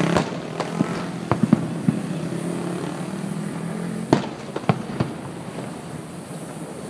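Fireworks bursting: scattered sharp bangs and crackles, several close together between one and two seconds in and a loud one about four seconds in, over a steady low hum that stops about four seconds in.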